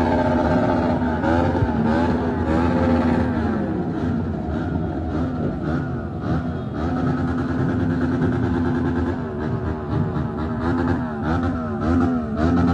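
Several motorcycle engines running and revving together, their pitches overlapping and rising and falling.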